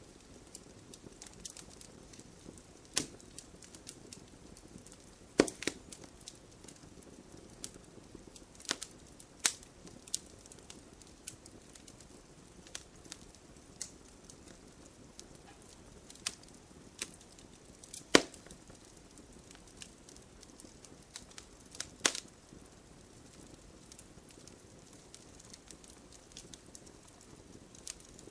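Wood fire crackling and popping in a fireplace over a low steady hiss, with sharp pops at irregular intervals, the loudest about 5, 18 and 22 seconds in.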